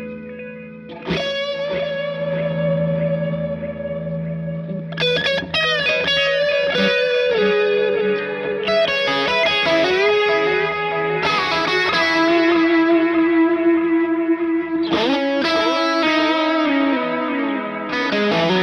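Fender Stratocaster electric guitar, driven by an overdrive pedal and the Sonicake Sonic Ambience delay and reverb pedal into a Vox AC30 amp, playing with slight distortion. Chords are struck every few seconds and ring out, with bent notes between them.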